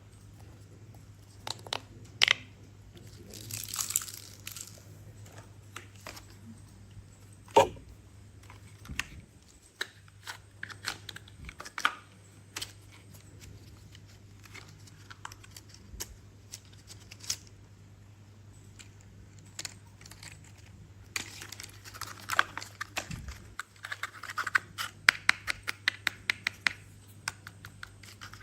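Hands handling a plastic toy log truck and crane: scattered sharp clicks and knocks of hard plastic, with stretches of crinkly rustling a few seconds in and again near the end.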